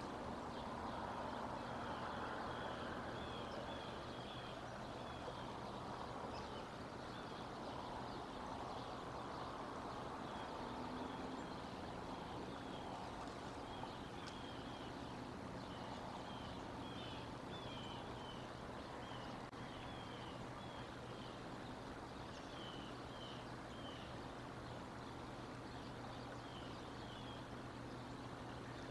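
Faint, quick chirping of small birds, coming in short clusters again and again, over a steady low outdoor rush with a faint hum.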